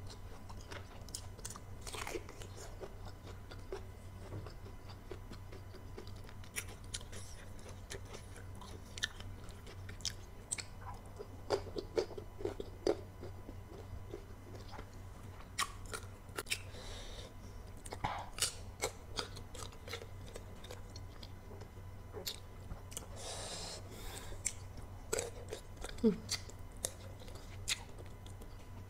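Close-miked chewing and crunching of sour green mango dipped in chilli sauce, with many short, sharp wet mouth clicks scattered irregularly throughout.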